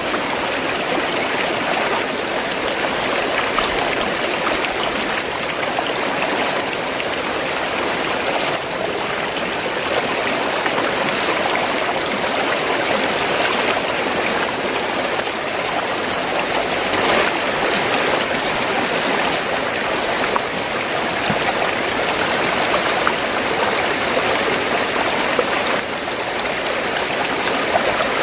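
Fast-flowing stream, its water gurgling and rushing steadily.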